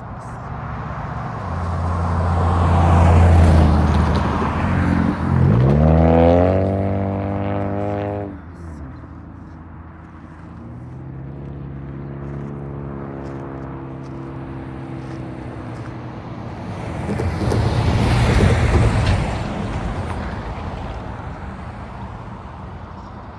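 Road vehicles passing through the crossing one after another, their tyre noise rising and falling. Near the middle, one engine revs up sharply, holds for a couple of seconds and drops away.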